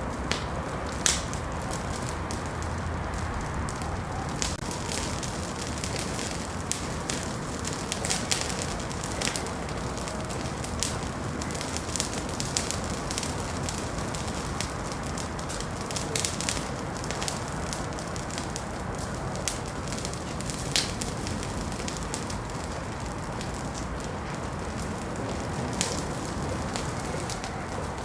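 Wood fire burning in a fireplace: a steady low hiss with irregular sharp crackles and pops, the loudest pop about a second in.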